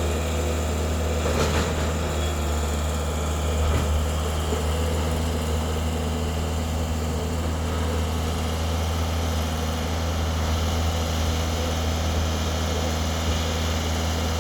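Excavator's diesel engine running at a steady pitch, with a couple of short knocks in the first four seconds.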